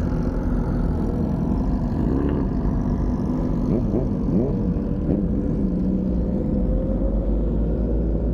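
Motorcycle engine running steadily just after being started, with a few short throttle blips about two to five seconds in.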